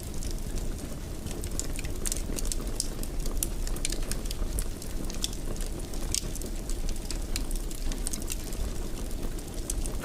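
Fireplace fire crackling: a steady low rumble of flames with many irregular sharp pops and snaps scattered through it.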